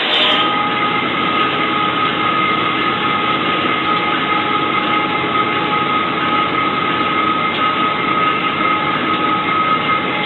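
Locomotive running along the track, heard from the cab: a steady, loud running noise with a steady high tone over it.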